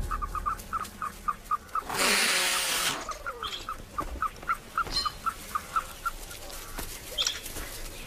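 A bird chirping in a fast, even series, about five short chirps a second, stopping a little over six seconds in. About two seconds in, a loud rushing noise lasting about a second covers it.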